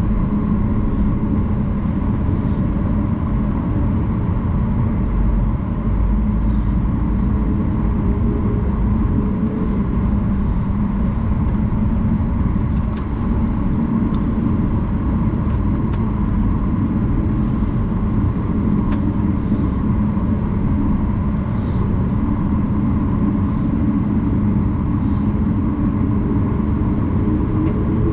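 Steady cabin rumble inside a Boeing 737 MAX 9, with a constant low hum from the aircraft's engines and airflow.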